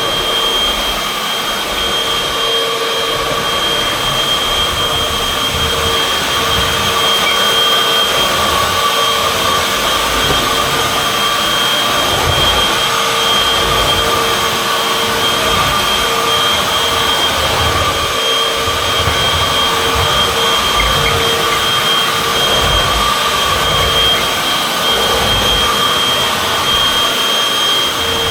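Upright vacuum cleaner, model UH70605, running continuously with a steady high whine over its motor noise, the low end rising and falling unevenly as it works the floor.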